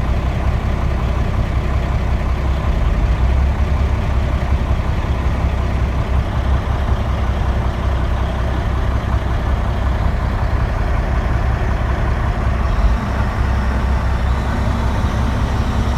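Heavy diesel engine running steadily with a low, even drone, no distinct knocks or load impacts.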